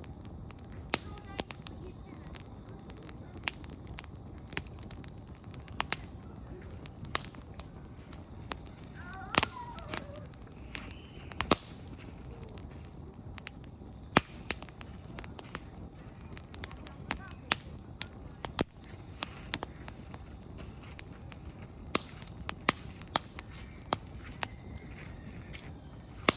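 Wood campfire crackling: irregular sharp pops and snaps of burning firewood, several a second, over a low steady rustle of the flames.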